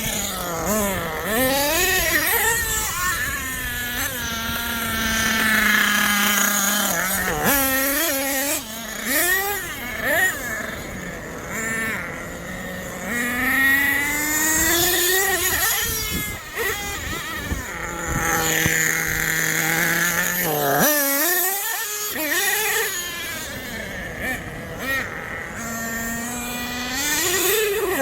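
Small nitro engine of a radio-controlled monster truck running hard, its pitch repeatedly revving up and falling back, with level stretches at steady throttle and a brief drop about two-thirds of the way through.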